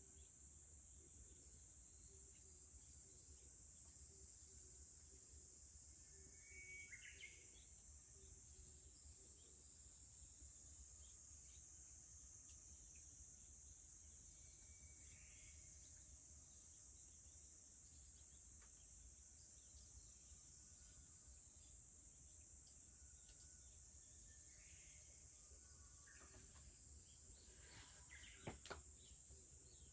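Faint, steady high-pitched drone of insects in a summer morning chorus, with a few short bird calls about 7, 15 and 25 seconds in. A couple of sharp clicks near the end are the loudest sounds.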